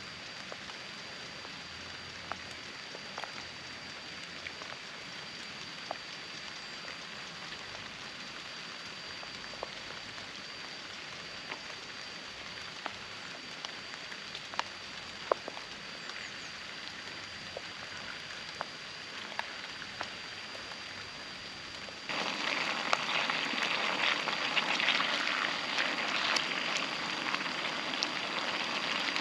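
Steady rain with scattered single drops ticking on a surface. About 22 seconds in the sound switches abruptly to a louder, dense crackle of food frying in a pan. A faint steady high whine runs underneath throughout.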